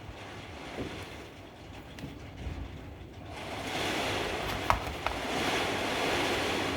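Rain falling outside, a steady hiss that swells louder about three seconds in and stays up, with two small sharp clicks shortly after.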